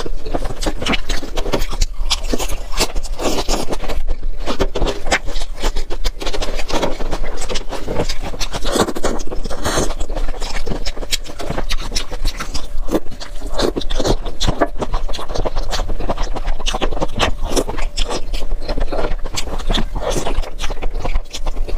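Close-miked chewing and crunching of crisp lettuce leaves wrapped around wide flat noodles and peanuts: a dense, continuous run of crunches and crackles.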